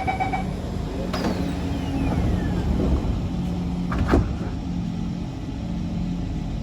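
Kawasaki C151 train's door-closing chime finishing with rapid beeps, then the doors shut with a knock about a second in and another about four seconds in. A thin falling whistle and a steady low hum run as the train gets under way.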